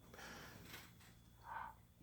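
Near silence: room tone, with a faint, short breathy sound about one and a half seconds in.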